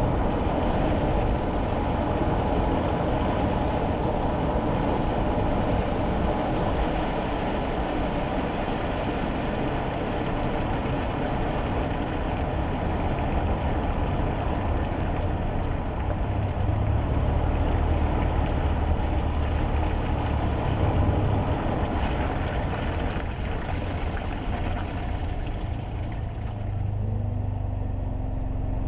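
Cabin noise inside a moving kei car on a wet road: steady tyre hiss and road noise over a low engine drone. Near the end the hiss thins out as the car slows, leaving a steady low engine hum.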